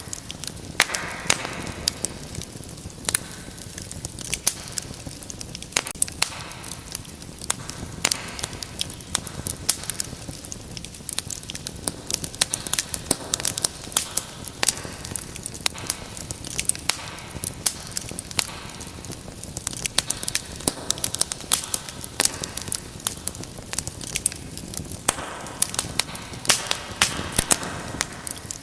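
Wood fire burning in a fireplace, crackling with frequent sharp pops over a steady low hiss.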